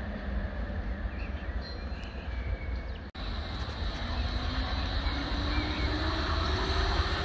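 Berlin S-Bahn electric train approaching, its running noise growing louder, with a rising whine in the second half over a steady low rumble. There is a brief gap about three seconds in.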